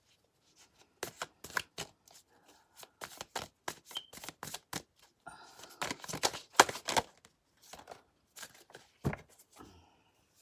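Tarot cards being shuffled and laid out: a run of short card flicks and slaps, busiest a little past the middle.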